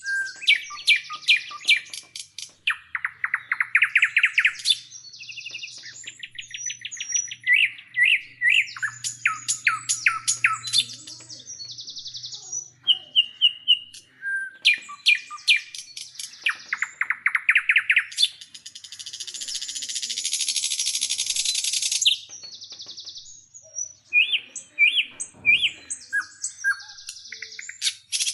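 Songbird singing a varied song of chirps, quick trills and down-sweeping notes in repeated phrases, with a long buzzy phrase about two-thirds of the way through.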